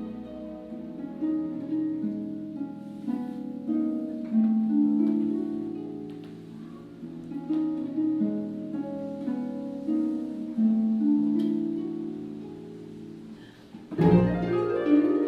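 Harp and viola duo playing a slow classical dance movement: the viola holds long low notes under a line of plucked harp notes. About fourteen seconds in, the music turns suddenly louder and fuller, with deep low harp notes.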